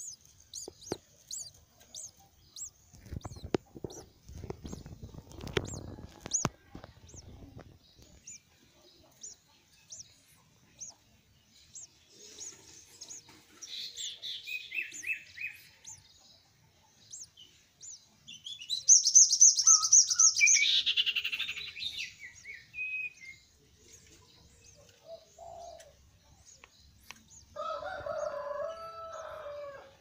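Birds chirping. Thin high chirps repeat through the first half, a loud rapid trill comes about 19 seconds in, and a lower call sounds near the end. About 3 seconds in, a low rumble lasts some five seconds.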